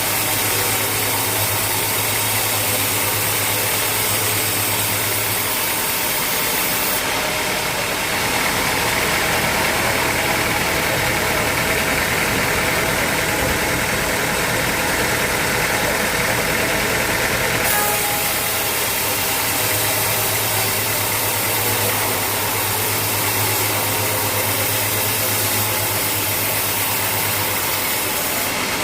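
Sawmill machinery running steadily, a motor hum under dense mechanical noise. The sound changes abruptly twice, about seven seconds in and again about eighteen seconds in, with a brighter whine in the middle stretch.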